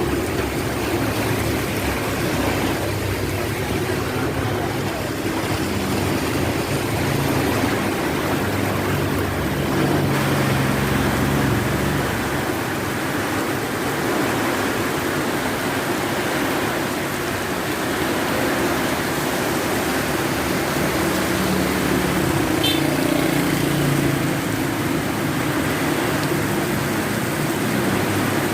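Heavy rain pouring down in a steady rush of noise, with a low rumble underneath that swells twice, about a third of the way in and again near the end.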